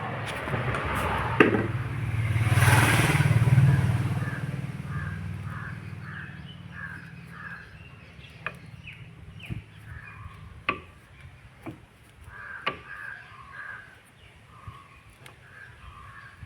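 A motor vehicle passes, swelling and fading over the first few seconds, while crows caw repeatedly. Later come several sharp metallic clicks about a second apart: the front brake caliper being rocked by hand on its slide pins to check that it now moves freely.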